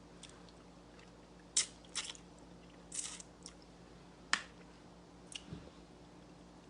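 Close-up mouth sounds of someone sucking and chewing on a stewed salmon fish head: about six short, wet smacks and clicks, spaced out, the sharpest about a second and a half in and again past four seconds.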